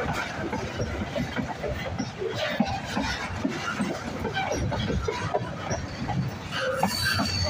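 Freight cars, tank cars and covered hoppers, rolling close past, their steel wheels rumbling and clacking over the rail. A brief high wheel squeal comes near the end.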